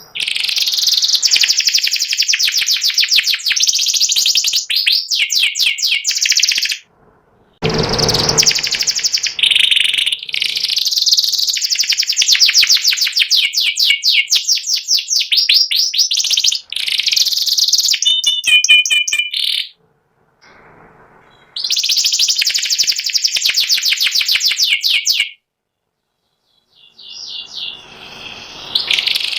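White panda canary singing long phrases of rapid, high-pitched trills and chatter, broken by short pauses. A brief thump about eight seconds in.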